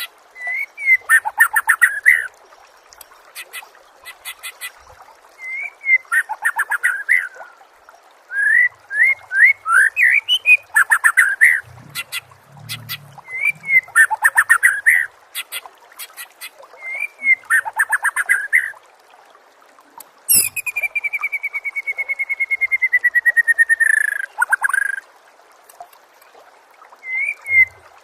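Songbird song recording: short whistled and chirping phrases repeated every couple of seconds, broken by fast high trills. About twenty seconds in comes one long trill that slowly falls in pitch over some four seconds.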